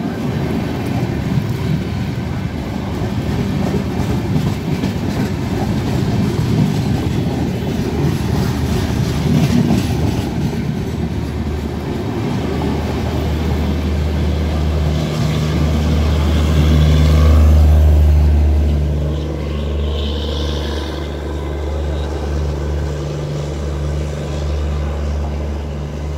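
Wheels clattering and rushing air as the LHB coaches of another express train pass close alongside, heard from the open door of a moving train. About halfway through, a steady low drone comes to the fore.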